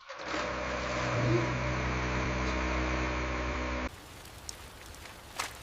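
A car engine running at a steady pitch, then cut off abruptly about four seconds in. A faint patter with scattered light clicks follows.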